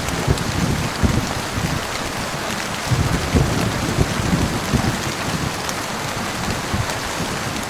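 Heavy rain falling steadily, a dense hiss of drops on a surface, with irregular low thuds underneath, strongest a little after a second in and around three seconds in.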